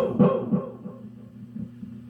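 Guitar struck through an Ecco-Fonic tube tape echo, its echo repeats coming about every quarter second and dying away.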